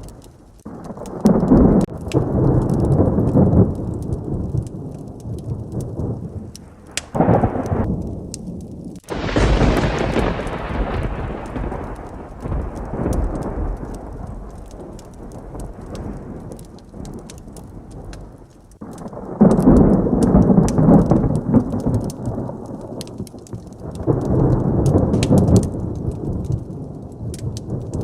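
Thunderstorm with steady rain: about five deep rumbles of thunder come and go, and a sharp thunderclap about a third of the way through rolls off slowly over several seconds. Fine crackles run underneath throughout.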